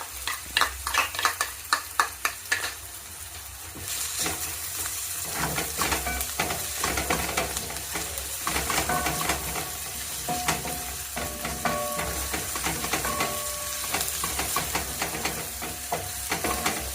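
A spoon knocks and scrapes against a cooking pot for the first few seconds. Then, about four seconds in, a steady sizzle starts as garlic and ginger fry in hot oil with onions, stirred with occasional clicks of the spoon.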